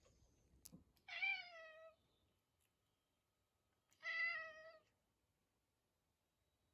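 Domestic cat meowing twice, about three seconds apart, each a short call that falls slightly in pitch.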